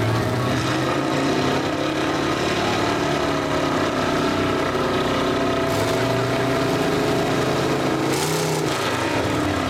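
Engines of two 4x4 pickup trucks running hard under load, pulling against each other in a truck tug of war, with several engine tones held steady and shifting in pitch near the end.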